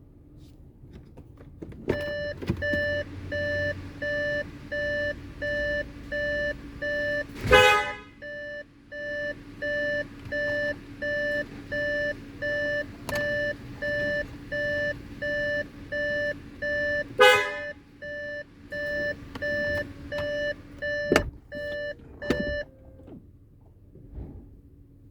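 An electronic beeper sounding a steady pitched beep over and over, about one and a half beeps a second, for roughly twenty seconds before it stops. Two short loud noises cut in near a third of the way in and again past the middle, over a faint steady hum.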